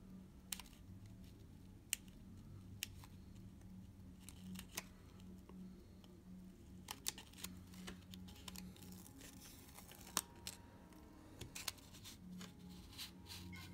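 Faint, scattered small clicks and light rustles of close hand work: paper and tape being handled against a camera's shutter mechanism. A low steady hum runs underneath.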